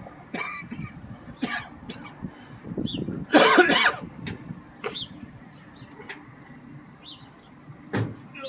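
Scattered clicks and knocks, with short bird chirps now and then. About three and a half seconds in comes a loud rough burst, which may be a cough, and there is another short burst near the end.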